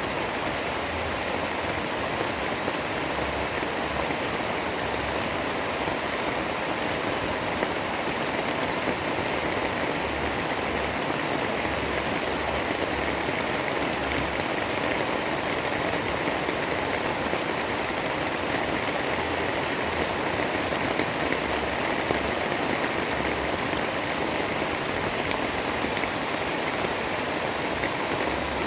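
Steady rain: an even, unbroken hiss of falling water that holds the same level throughout.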